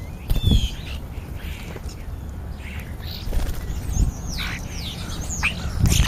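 European starlings calling at a feeder: a string of short, high whistles that slide downward, mixed with chirps. A low rumble runs underneath, with a few dull thumps.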